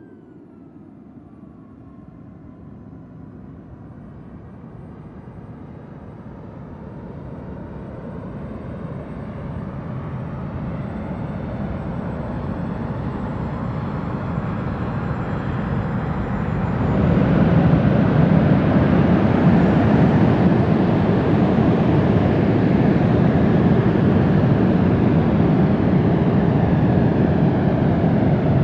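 Jet airliner's engines growing steadily louder as it approaches, with a faint high whine over the rush. About two-thirds of the way through the noise jumps to a loud, steady rush that holds to the end.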